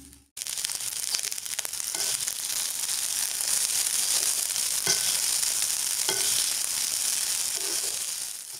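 Fried rice sizzling steadily in a hot wok, with a few scrapes and knocks of the metal spatula against the pan as it is stirred.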